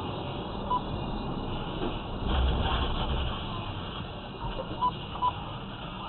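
Road and engine noise of a moving car, recorded from inside by a dashcam. The rumble swells for about a second around two and a half seconds in. Three short electronic beeps sound, one just under a second in and two close together near the end.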